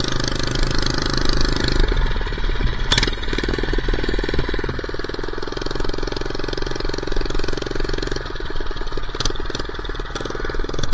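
Minibike's small engine running under way as it is ridden, with a steady hum whose note shifts about two seconds in.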